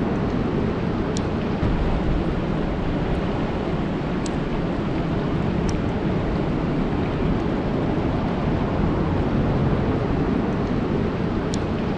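Steady rain falling on a lake: a dense, even hiss with a few sharp ticks.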